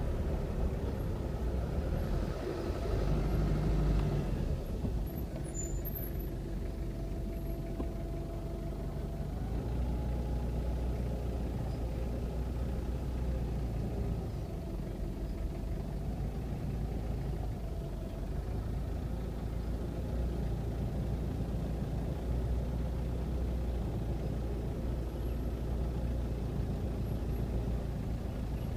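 Car engine running, heard from inside the vehicle's cabin as a steady low rumble, a little louder for a couple of seconds near the start.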